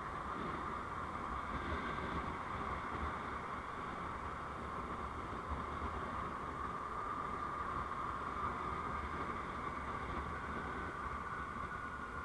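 Steady engine and road noise of a vehicle under way, recorded on board, with a constant whine whose pitch drifts gently and dips slightly near the end.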